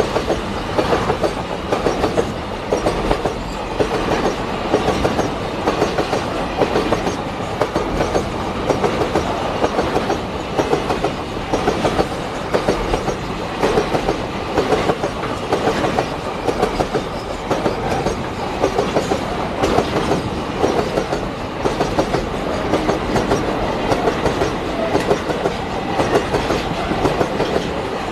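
Container freight wagons rolling past close by. Their wheels clack over the rail joints in regular repeated groups over a continuous rumble.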